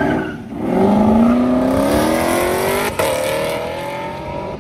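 Car engine accelerating hard, its pitch climbing steadily. About three seconds in, a quick gear change drops the pitch, and then it climbs again.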